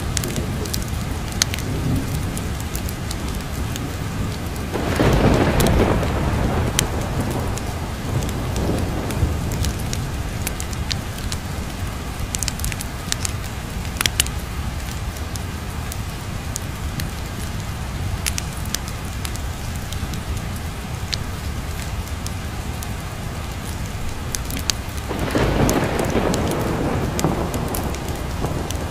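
Steady heavy rain with two rolls of thunder, one about five seconds in and one near the end. Scattered sharp crackles run through it.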